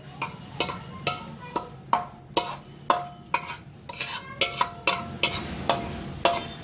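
Spatula scraping and tapping against a kadhai, about two strokes a second, each with a short metallic ring, as dry-roasted semolina is scooped out of the pan.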